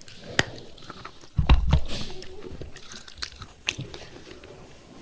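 A person biting and chewing pieces of thick broken clay pot close to the microphone: sharp cracks and crunches between quieter chewing, the loudest about one and a half seconds in.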